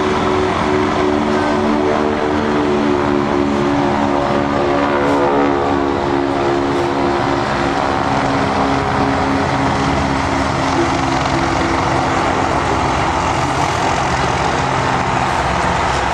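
A propeller-driven aircraft's piston engine running loudly and steadily, its droning pitch shifting in the middle as the aircraft passes.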